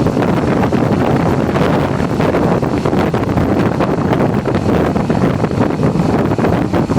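Wind buffeting the microphone with steady road and engine noise from a motorcycle riding at speed.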